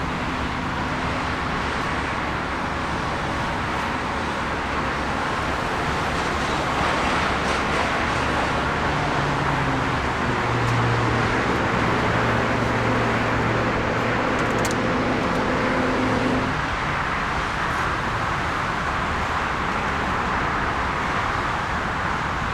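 Steady engine noise at an airport: a broad rushing roar with a low hum, the kind of sound a jet airliner makes while taxiing or rolling on the runway. The hum grows stronger in the middle and then cuts off suddenly about three-quarters of the way through, leaving only the rushing noise.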